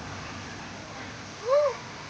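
A single short voice-like call about one and a half seconds in, rising then falling in pitch, over a steady background hiss.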